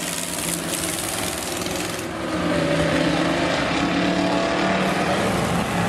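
Race car engines running, the sound getting louder about two seconds in.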